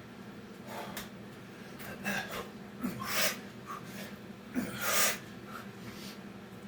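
A man breathing hard from exertion during Navy SEAL burpees: about four sharp, noisy breaths, a second or two apart.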